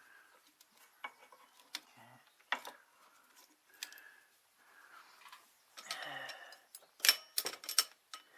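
Scattered metallic clicks and clinks of hand tools working under a car's hood, with a quick run of louder clicks near the end.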